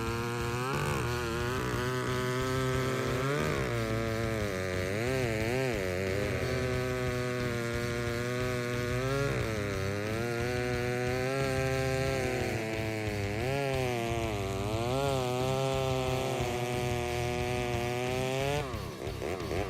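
Stihl 076, a 111 cc two-stroke chainsaw, running hard and cutting through a big log, its engine pitch dipping and climbing again and again as the chain bites. The sound drops away near the end.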